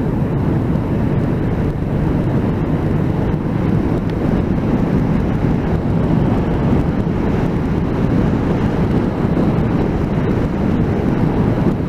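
Steady wind rush and road noise from a moving motorcycle, picked up by a cheap mic fitted inside the rider's helmet.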